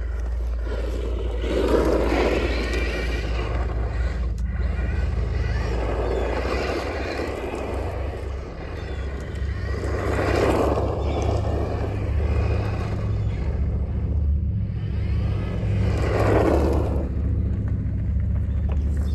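Electric RC car being driven around, its motor whine and tyre noise swelling four times as it passes close, over a steady low hum.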